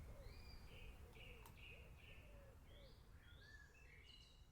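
Faint rainforest ambience of many birds chirping and whistling, fading out.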